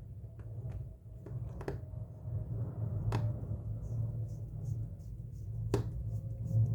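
A few sharp clicks and light taps of small parts and a screwdriver being handled on a phone under repair, over a steady low hum.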